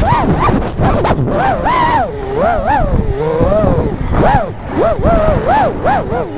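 FPV freestyle quadcopter's brushless motors whining, the pitch swooping up and down every fraction of a second as the throttle is punched and chopped through manoeuvres.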